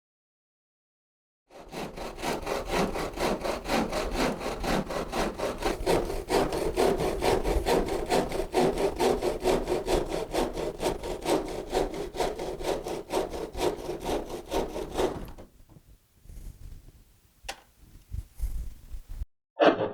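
Saw cutting through the wooden leg in quick, even back-and-forth strokes, starting about a second and a half in and stopping a few seconds before the end, followed by a few quieter scrapes and a light knock.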